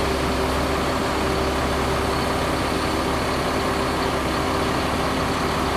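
A heavy engine running steadily at idle, a constant low rumble with a steady hum over it.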